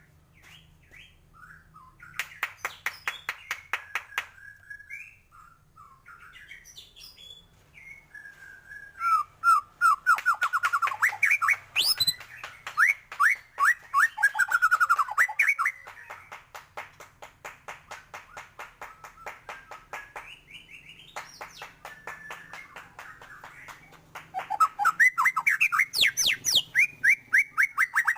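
White-rumped shama (murai batu) singing continuously: fast runs of sharp repeated notes mixed with whistled phrases, its song packed with mimicked calls of other birds. It gets loudest in two stretches of rapid, falling note series, about a third of the way in and again near the end.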